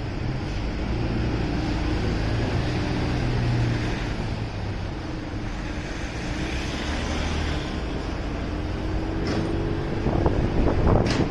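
Motorcycle running on the road with wind buffeting the microphone; the engine note rises slowly through the second half, and two short sharp clicks come near the end.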